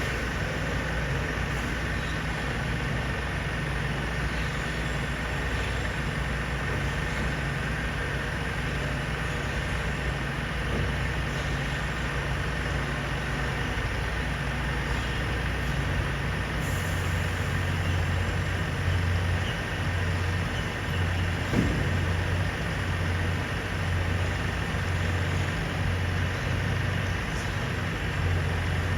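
Mercedes-Benz Arocs garbage truck's diesel engine running steadily. About halfway through, its low note shifts and grows a little stronger, and a faint steady whine sits above it.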